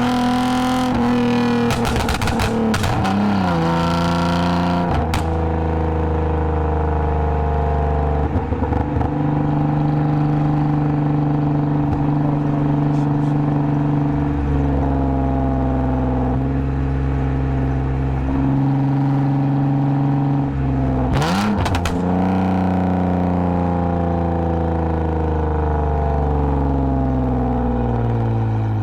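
2010 Lexus IS250 AWD's 2.5-litre V6 through an aftermarket full exhaust with valved mufflers, cruising. The engine pitch steps down a few times in the first seconds and holds steady through the middle. About two-thirds of the way in there is a short clattery burst and a quick rise, then the pitch falls away slowly to the end.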